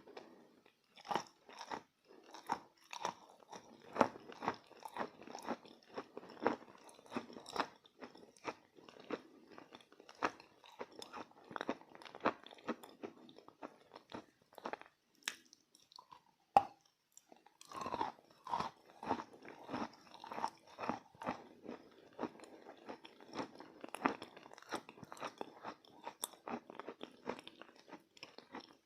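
A person biting and chewing chalk: quick, irregular crunches, a short lull about halfway through, then steady crunching again.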